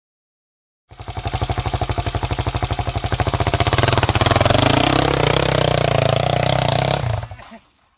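Single-cylinder off-road motorcycle engine running, its separate firing pulses audible; it starts abruptly about a second in, the revs pick up about three seconds in and hold, then it cuts away near the end.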